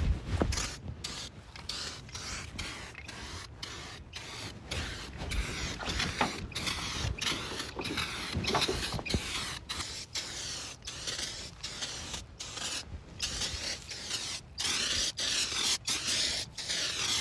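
Rust-Oleum Turbo Can aerosol spray paint hissing in repeated short bursts as the nozzle is pressed and released, with longer steady passes near the end.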